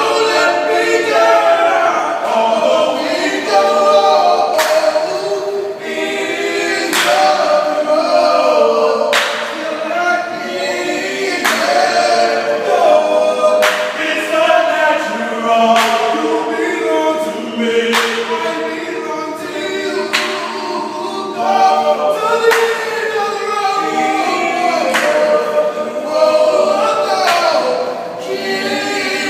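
A group of street singers singing a cappella in several-part harmony, with a sharp clap about every two seconds keeping a slow beat.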